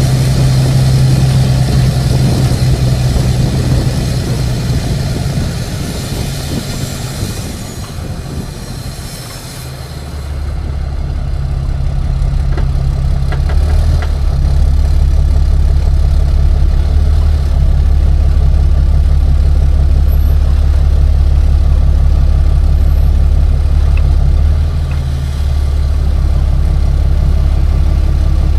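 Tow truck engine running with road noise that eases off over the first eight or nine seconds, then a steady, loud low drone for the rest of the stretch, briefly dipping near the end.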